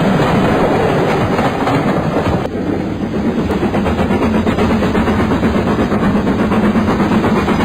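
West Somerset Railway heritage train running along the track: a loud, steady rumble with wheel clatter on the rails. About two and a half seconds in, the higher hiss drops away and the low rumble carries on.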